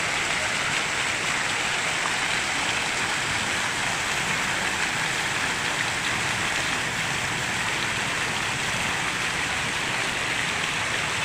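Fountain water jets spraying and falling back into the pool: a steady rushing, splashing hiss.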